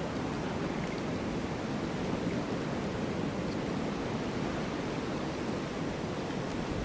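Snowstorm wind blowing steadily: an even, dull rush of noise, heaviest in the low range, with no gusts or distinct events.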